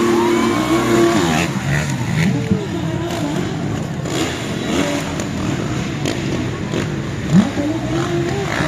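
Motocross dirt bike engines running and revving, rising and falling in pitch, with voices over them.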